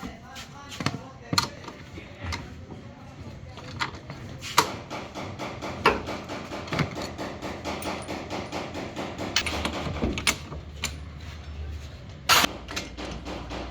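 Hand tools knocking and clanking on metal parts while a front shock absorber is being worked on: scattered sharp knocks, the loudest near the end, with people talking.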